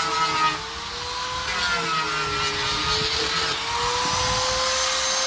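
A power tool motor running steadily, a whine that wavers slightly in pitch over a hiss.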